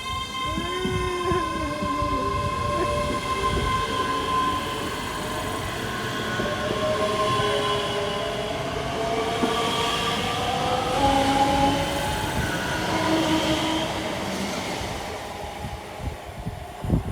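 A train moving along the track: a steady rumble with several whining tones that slide slowly up and down in pitch.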